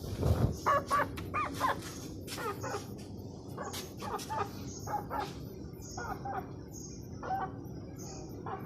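Chickens clucking and calling in short, bending calls, several close together. Faint high chirps repeat about once a second from about five seconds in.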